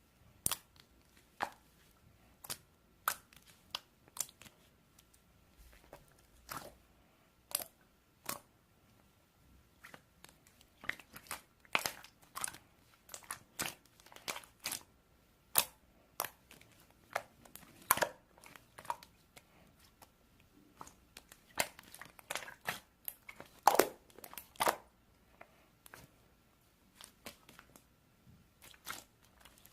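Mixed slime being squished and stretched by hand, making sharp, irregular pops and clicks that come closer together through the middle stretch.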